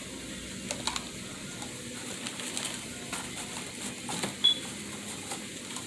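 Light rustling and scattered clicks as a dove cage and its feed are handled, with one sharper knock about four seconds in and a brief high squeak just after.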